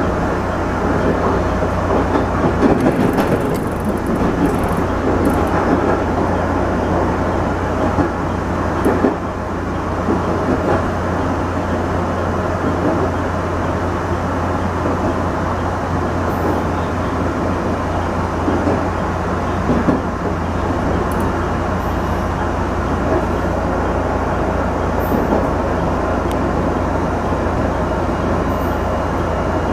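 JR West 213 series electric train running along the line, heard from inside the driver's cab: a steady rumble of wheels on rail with a constant low hum.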